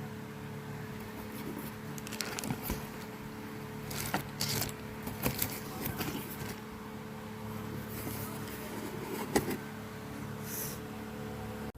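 A steady low hum with a few scattered sharp clicks and knocks, and brief hissy rustles.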